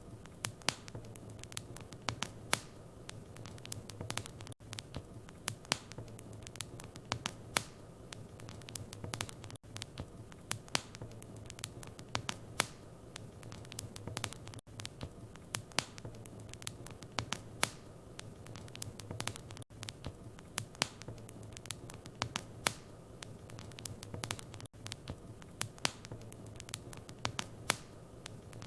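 Fireplace wood fire crackling: irregular sharp pops and snaps over a steady low hum, with a brief dropout about every five seconds where the recording loops.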